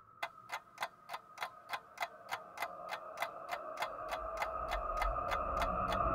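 Rapid, even clock-like ticking, about three ticks a second, that starts suddenly over a steady high drone. The drone swells louder throughout, joined by a low rumble in the second half, as the soundtrack builds.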